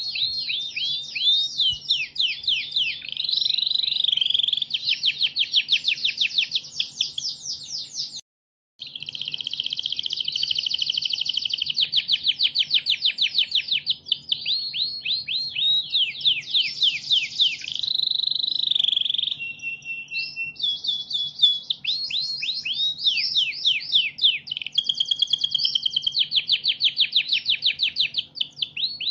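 Domestic canary singing a long, continuous song of rapid trills and fast repeated sweeping notes, changing from one trill to the next every second or two. The song breaks off completely for about half a second near the 8-second mark, and a faint steady low hum runs underneath.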